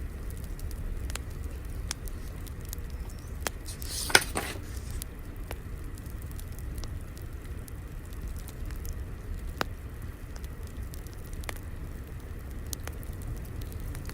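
Fire crackling: scattered sharp pops and ticks over a low, steady rumble, with a louder burst of crackling about four seconds in.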